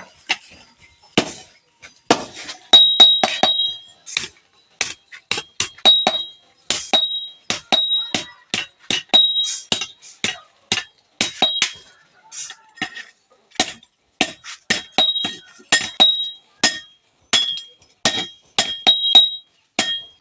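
Blacksmith's hammer striking a steel crowbar on an anvil, a steady run of blows about two to three a second, many with a high metallic ring, while a hole is worked through the bar.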